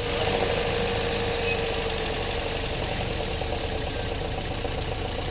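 Toyota Corolla GLi's petrol engine idling steadily just after being started, with a faint whine that drops slightly in pitch as the idle settles.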